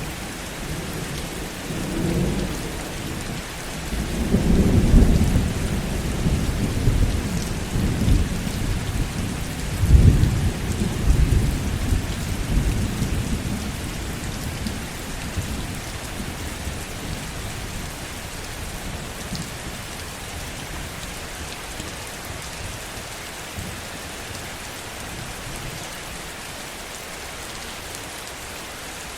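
Heavy rain falling steadily, with a long rolling rumble of thunder that swells twice in the first half and fades out, leaving only the rain.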